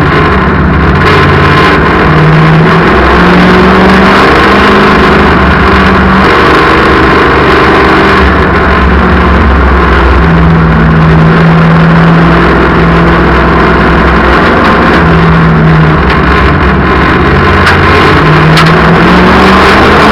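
Race car engines running hard on a speedway, loud, their pitch rising and falling as the cars accelerate and lift.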